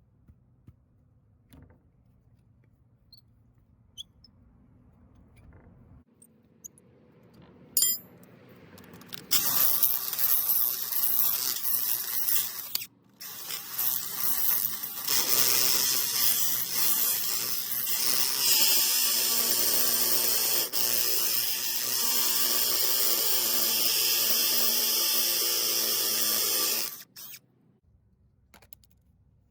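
Ryobi cordless hammer drill boring into concrete. After a single clack about eight seconds in, the drill runs for about three seconds, stops briefly, then runs steadily for about fourteen seconds before cutting off.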